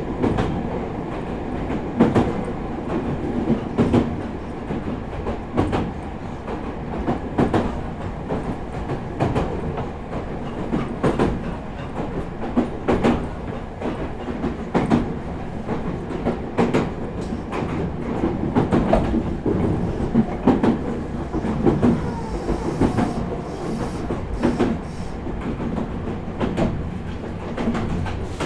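Meitetsu 4000 series electric train running at speed, heard from inside the car: a steady rolling rumble with repeated clicks of the wheels passing over rail joints.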